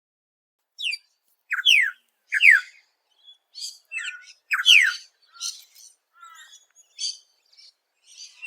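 Australasian figbird calling: loud, sharp notes that slur downward, given every second or so, with softer high chattering between them.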